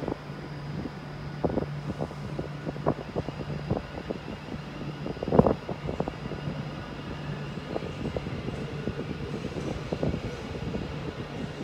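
Railway station platform sound: a train's steady low hum, which stops about seven and a half seconds in, with scattered knocks and clunks, the loudest about five seconds in.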